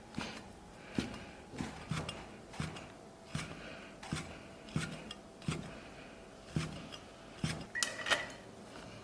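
Kitchen knife cutting a sheet of tofu skin on a cutting board: short knocks of the blade hitting the board, about one every three-quarters of a second, with a quicker few near the end.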